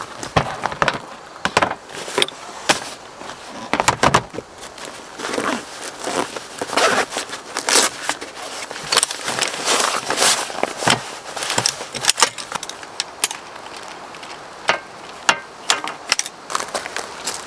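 Irregular crunching, rustling and clicking, as of gear being handled or steps on dry ground, over a steady hiss.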